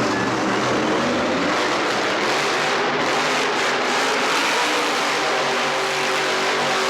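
Loud show-vehicle engines running, with several pitched engine notes shifting over a dense, steady roar.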